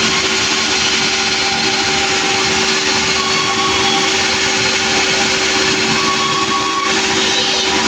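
Sawmill machinery running steadily: a motor's constant hum under a loud, even saw noise.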